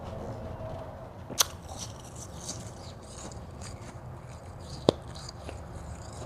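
A person biting and chewing hard white ice: two sharp, loud crunching bites about three and a half seconds apart, with softer crackling crunches between them.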